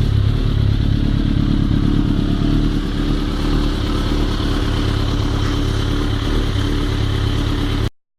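Suzuki GSX-R inline-four motorcycle engine running steadily after a rebuild that replaced its failed valve stem seals. The sound cuts off abruptly near the end.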